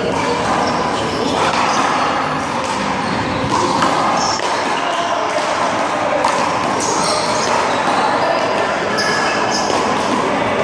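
A small rubber handball being struck by hand and bouncing off the wall and pavement during a one-wall handball rally. A few sharp smacks stand out over a steady background of noise.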